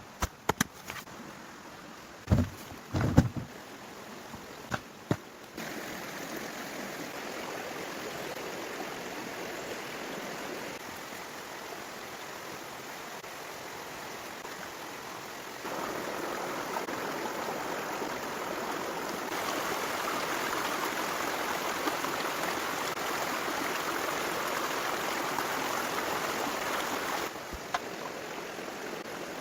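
A few sharp knocks in the first five seconds, then a steady rush of running water, like a stream, that gets louder in sudden steps and drops back near the end.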